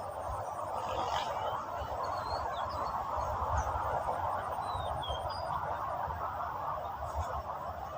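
A steady, dense chorus of animal calls, with a few short, high bird chirps over it and a low rumble underneath.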